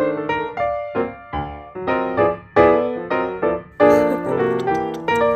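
Background piano music, single notes and chords struck in a steady, gentle rhythm.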